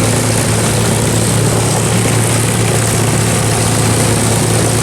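P-51 Mustang's V-12 piston engine idling steadily on the ground before taxi, a constant low propeller drone with no change in pitch.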